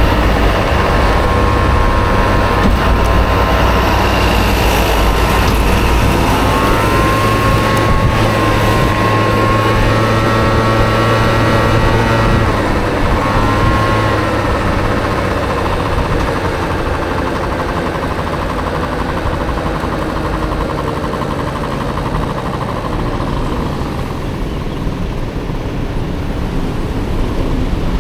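Honda Motocompo scooter with a swapped-in Honda Dio engine running on the move, its engine note rising and falling with the throttle, over steady road noise. It eases off and gets somewhat quieter in the second half.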